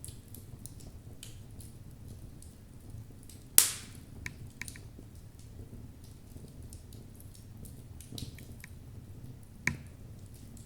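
Burning logs crackling in a fireplace: a steady low rumble of flames under scattered small ticks, with one loud sharp pop about a third of the way in and a smaller pop near the end.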